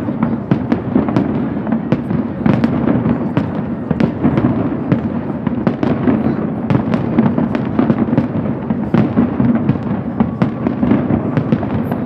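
Fireworks display going off continuously: many sharp bangs and crackles a second over a steady rumble of overlapping explosions.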